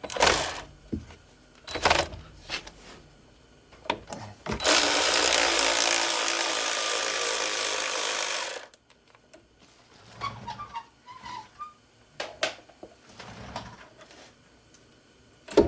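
A power tool spinning out the 10 mm brake line bracket bolt on a front wheel hub assembly, running steadily for about four seconds. Short clicks and a sharp clank of tools and metal parts come before and after it.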